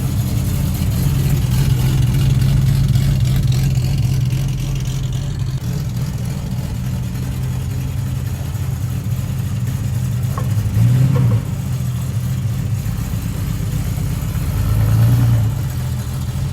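A car engine idles with a steady low note and is briefly blipped twice, about eleven and fifteen seconds in.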